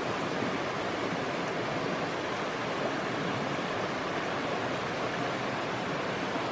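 Steady rushing of falling or flowing water, an even noise with no rhythm, cut in and out sharply.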